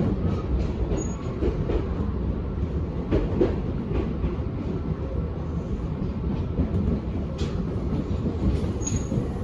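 Train rumble on the rails, heard from inside a commuter train car: a steady low roar of wheels with scattered faint clicks.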